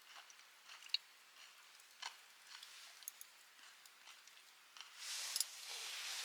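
Wood fire crackling with scattered small sharp pops. A louder hiss rises about five seconds in.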